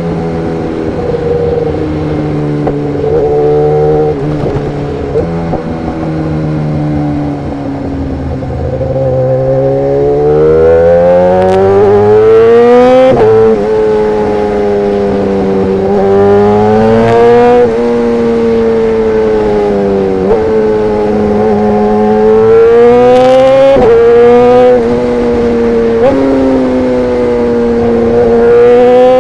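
BMW S1000RR's inline-four engine through an Arrow Pro exhaust, at first running at low revs, then climbing in pitch under acceleration with a sharp drop at each gear change, several times over.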